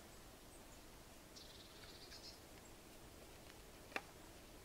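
Near silence in woodland, with a faint high bird trill about a second and a half in and a single sharp click near the end as the bow drill's spindle and cord are handled.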